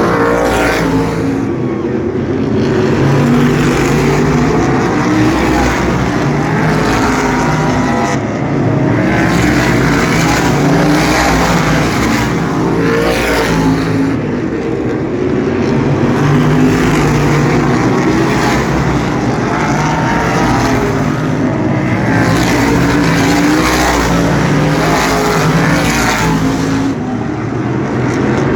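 Asphalt sprint cars racing around the track, their engines rising and falling in pitch as cars pass in turn, several times over.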